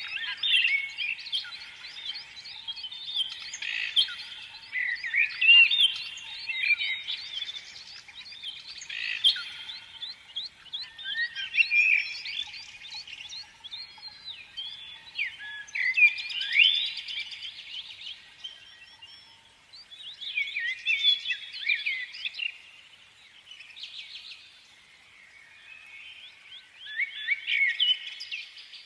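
Many small birds chirping and twittering together in a dense, overlapping chorus of quick high chirps and short trills. The chorus thins out for a few seconds late on, then picks up again near the end.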